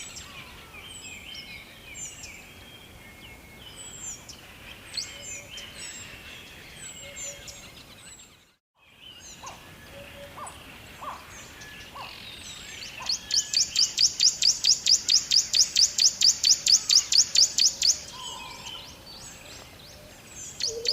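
Wild birds chirping and calling, with short high chirps scattered throughout. The sound cuts out completely for a moment just before the middle, and later a loud rapid trill of about seven notes a second runs for about five seconds.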